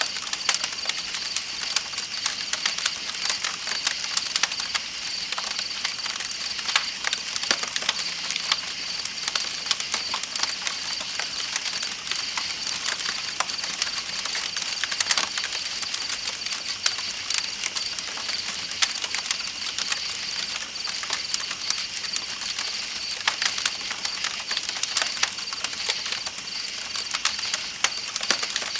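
Campfire crackling with many small sharp pops, over a steady high trill of night insects and the even hiss of a flowing river.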